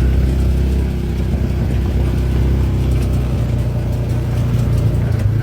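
A UTV's engine running steadily under way, a low even drone.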